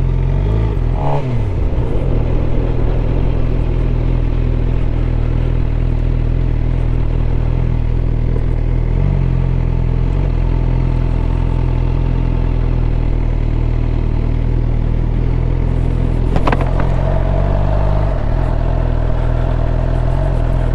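Suzuki GSX-R750's inline-four engine running steadily. Its pitch shifts slightly a couple of times.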